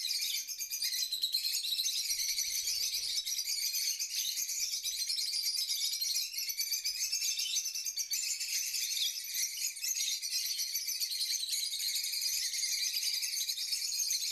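A group of small birds chirping and twittering steadily, with many high calls overlapping.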